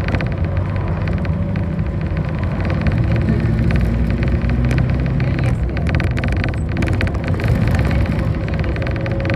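City bus engine running and tyre and road noise, heard from inside the moving bus as a steady low drone.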